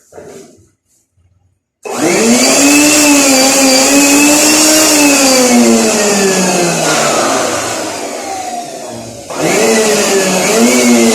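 A high-speed electric motor starts suddenly with a loud whine about two seconds in. It runs steadily for a few seconds, then winds down in pitch. It is switched on again near the end and winds down once more.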